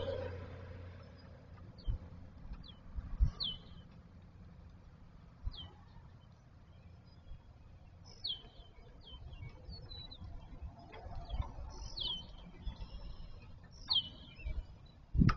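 A bird calling with short, high chirps that slide downward, coming every second or few, some in quick pairs. A passing car fades out at the start.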